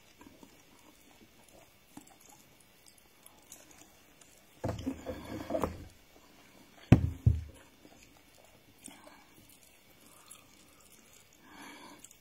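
A person eating rice and stew by hand: mostly faint chewing, with a short burst of chewing and mouth noises about five seconds in and a single sharp click about seven seconds in.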